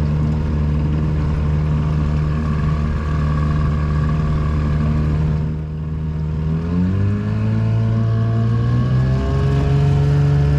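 Small 6-horsepower Evinrude outboard motor running at a steady speed, then throttled up a little past halfway, its pitch rising in two steps.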